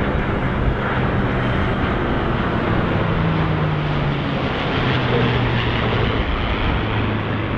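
F-22 Raptor jet and P-51 Mustang flying past together in a heritage-flight formation: a loud, steady rush of aircraft noise with a low engine drone. The drone falls in pitch through the second half as the planes go by.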